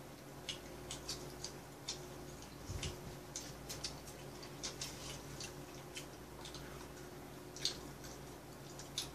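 Soft, irregular clicking and crunching, about two or three sharp clicks a second, from chewing crispy fried chicken gizzards, over a steady low hum.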